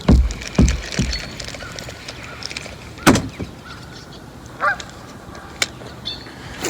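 Hollow knocks of a kayak paddle or gear against the plastic hull: three deep ones in the first second, then a sharper one about three seconds in. A brief honking call sounds about four and a half seconds in.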